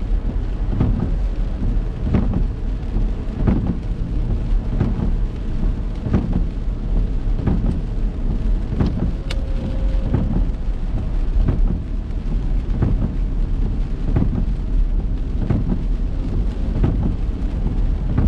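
Heavy rain on a moving car, over a steady low rumble, with a regular knock about every second and a half.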